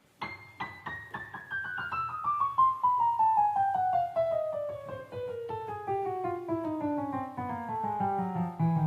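Yamaha PSR-S950 arranger keyboard playing a piano voice: a long run of notes stepping steadily down in pitch, several notes a second, with low bass notes joining near the end.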